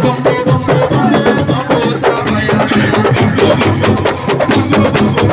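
Live assiko band music: a fast, dense percussion rhythm of many drum strokes a second with a steady low part underneath.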